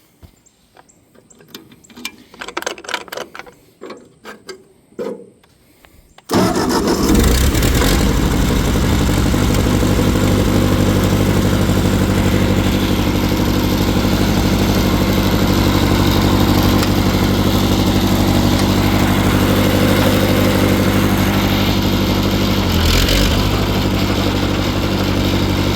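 Ford 8N tractor's four-cylinder flathead engine starting abruptly about six seconds in, after a few faint clicks, then running at a steady idle. There is one brief knock near the end.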